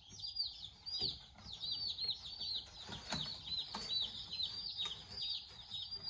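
Day-old meat chicks peeping steadily, several high, falling peeps a second, with a few brief knocks as they are handled.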